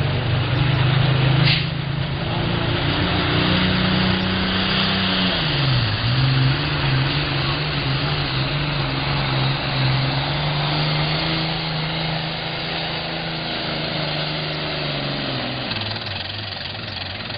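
John Deere 4020 pulling tractor's engine running hard under full load as it pulls the sled down the track. Its pitch sags about five seconds in and climbs back, and the sound grows gradually fainter toward the end.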